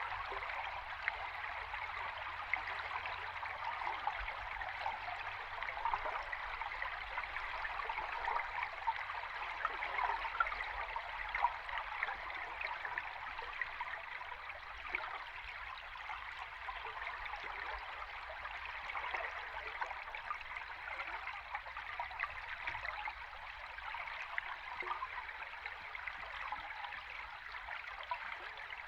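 River stream heard underwater: a steady rush of flowing water dotted with a fine, constant crackle of small bubbles and clicks.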